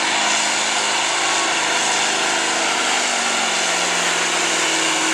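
Turbocharged Ford diesel pickup at full throttle pulling a sled: loud engine and turbo noise, the engine's pitch slowly falling through the run.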